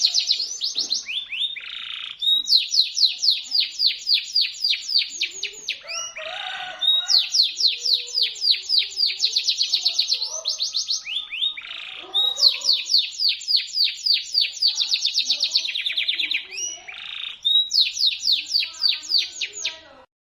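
Canary singing shrill, sharp phrases: fast runs of about four or five repeated high notes a second, each phrase a few seconds long, broken by brief pauses. The song cuts off abruptly near the end.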